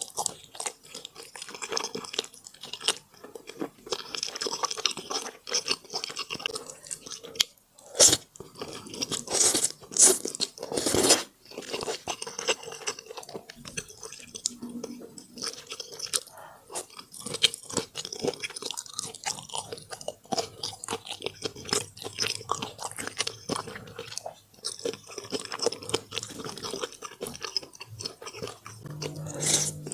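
A person chewing and biting into crunchy food, with several louder crunching bites between about eight and eleven seconds in.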